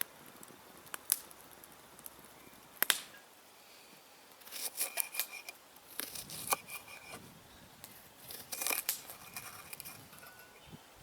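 Handling sounds: a few sharp clicks, then three short bursts of crinkling and rustling.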